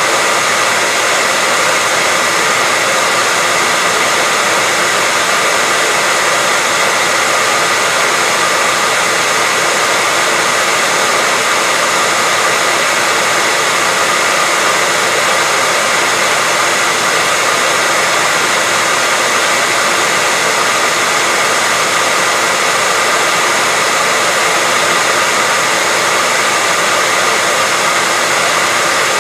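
Hair dryer running steadily, an even airy rush with a faint high whine from its motor, played as white noise for lulling a baby to sleep.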